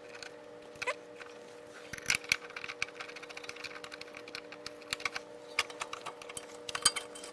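Scattered light metal clicks and short scrapes of hand tools and bolt hardware as a bolt is started by hand on a rear suspension mount, over a steady hum.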